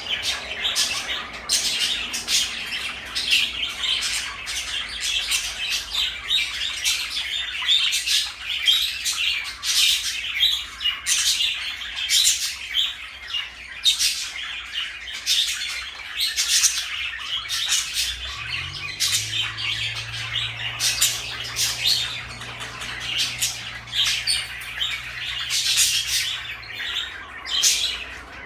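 Pet parakeets chattering continuously, with many quick chirps and squawks. A low steady hum starts about two-thirds of the way in and stops shortly before the end.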